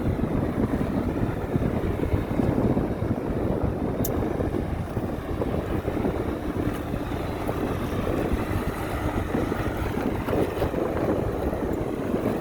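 Heavy diesel earthmoving machinery, dump trucks and a bulldozer, running with a steady low rumble.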